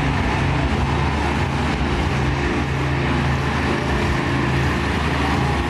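Monster truck engine running steadily.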